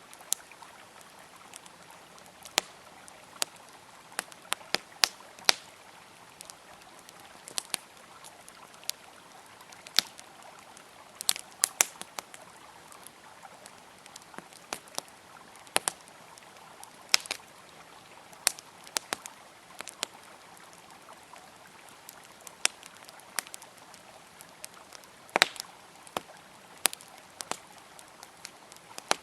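Wood campfire crackling, with sharp pops coming at irregular intervals, over the steady rush of a flowing river. One louder pop comes near the end.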